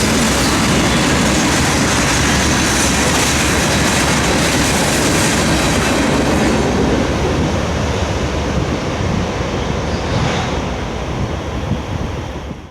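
Train rolling past on the track, a dense steady rumble of wheels on rails that loses its higher hiss about halfway through and tapers off near the end.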